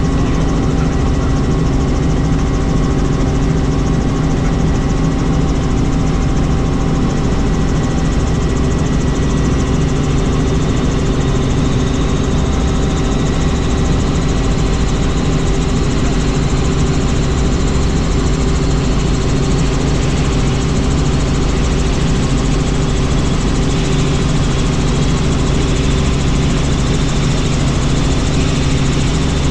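Helicopter in steady flight: a constant engine and rotor drone with several unchanging tones.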